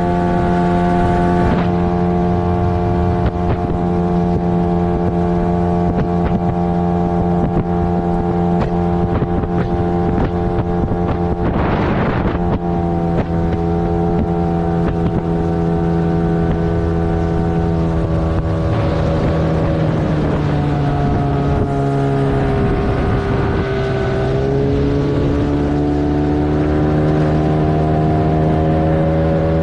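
15 hp outboard motor pushing a 3.3 m inflatable boat at speed, its note holding steady, then sagging in pitch about two-thirds of the way through and climbing back. A short rushing noise comes about 12 seconds in, with wind on the microphone.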